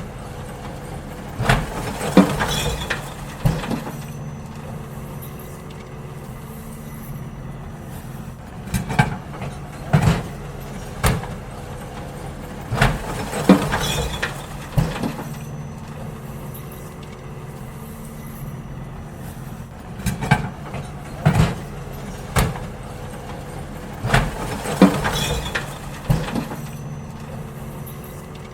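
Garbage truck engine running steadily while its lifter empties bins: groups of loud bangs and clatters as the bins are tipped and knocked against the hopper, repeating about every eleven seconds.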